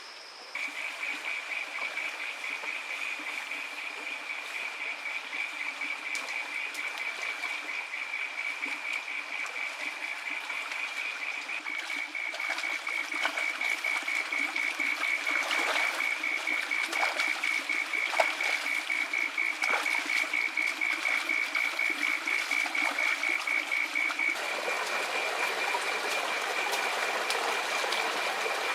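A steady high-pitched trill of rapid pulses, a calling animal in the wild, over the even rush of a stream.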